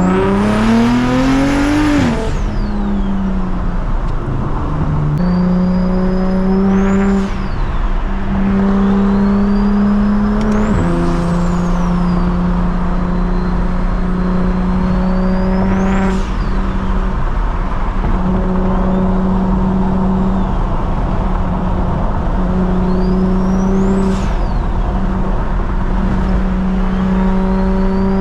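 Single-turbo BMW 335is N54 inline-six pulling hard up an on-ramp, its pitch climbing steeply for about two seconds before a shift, then running steadily at speed with brief lifts. A thin high whine rises and falls several times over the engine.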